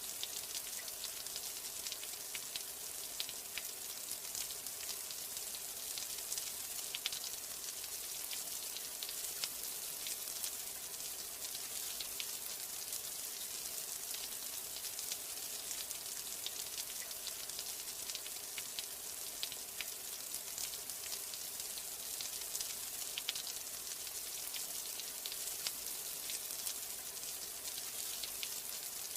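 Steady rain falling: a constant high hiss with many small drop ticks scattered through it.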